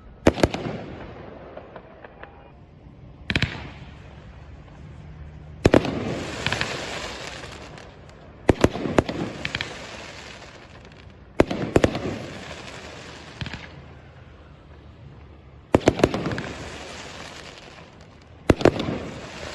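Fireworks going off: seven sharp bangs, about one every three seconds, each followed by a fading crackle that lasts a second or two.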